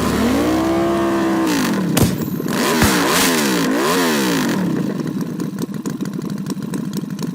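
Motorcycle engine revving: it rises, holds, drops back, then is blipped quickly up and down three times, with a couple of sharp clicks in between.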